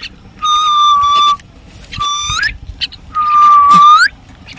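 Three long whistled notes. Each holds one pitch and bends upward at the end; the first and last last about a second, and the middle one is shorter.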